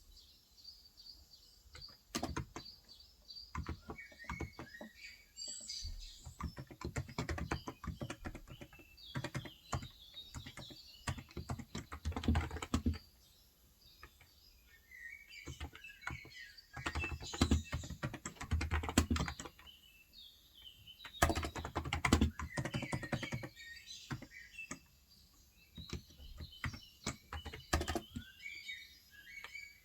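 Typing on a Cox Endeavor tenkeyless keyboard with 35 g electrostatic capacitive (non-contact) switches, in bursts of rapid key clicks broken by short pauses. Small birds chirp in the background.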